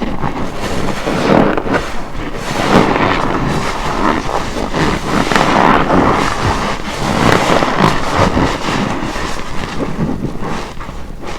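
Wet, soapy car wash sponge being squeezed again and again, with foam and water squelching and crackling in continuous swells.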